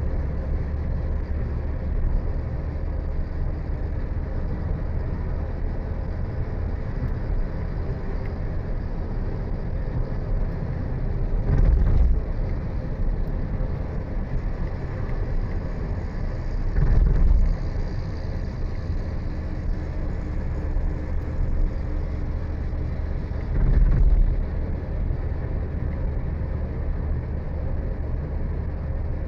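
Steady engine and road noise of a moving vehicle, with three short, louder low rumbles spread through.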